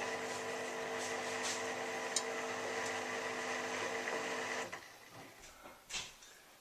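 Miele W3744 washing machine on a reduced-speed spin, its motor running with a steady whine. The spin is held back by a suds lock from too much foam. The whine cuts off sharply about four and a half seconds in, and a short knock follows about a second later.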